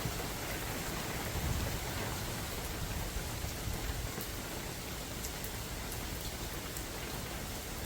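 Steady rain falling in a forest, an even patter with scattered sharper drips, over a low, fluctuating rumble of wind.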